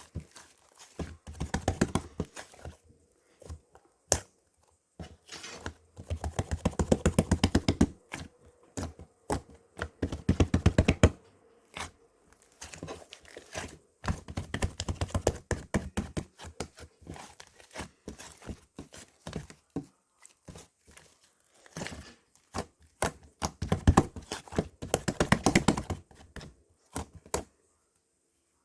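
Cloud slime being squished and stretched by hand, giving bursts of dense crackling and popping a second or two long with short pauses between.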